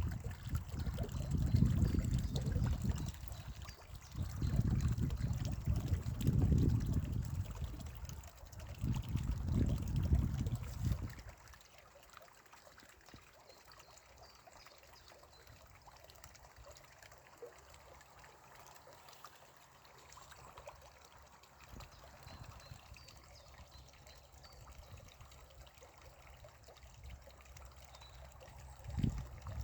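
Spring water trickling. For the first ten seconds or so low rumbling gusts swell over it every couple of seconds, then they drop away and leave a faint trickle, until another low gust comes near the end.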